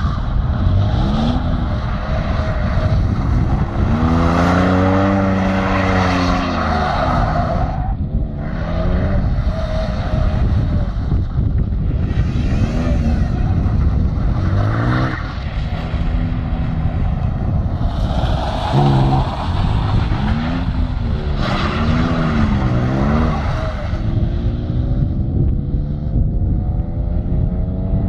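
Ford Sierra engines revving hard and dropping back over and over as the cars drift, with tyres skidding on the asphalt. Near the end one engine climbs steadily as it accelerates.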